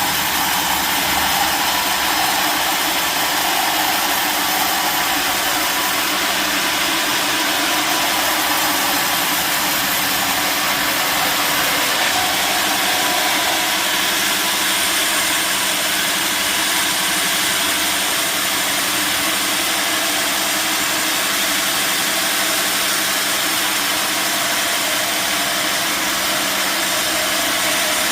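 Sawmill machinery running steadily and loudly, an even mechanical noise with no break or change.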